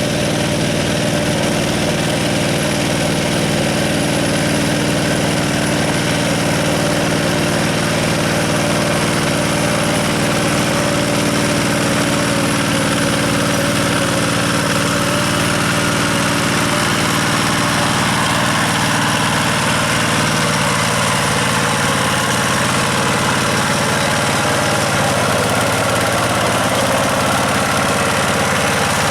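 Yanmar single-cylinder diesel engine of a two-wheel hand tractor running steadily, its note shifting slightly about twenty seconds in.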